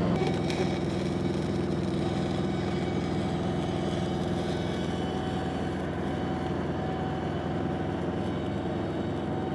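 Engine of a tow-behind welder-generator running steadily at a constant speed, a low even hum with no change in pitch.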